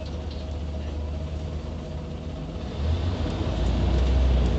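Scania OmniCity city bus engine heard from inside the bus, running at a low steady drone, then getting louder and heavier about three seconds in as the bus picks up power.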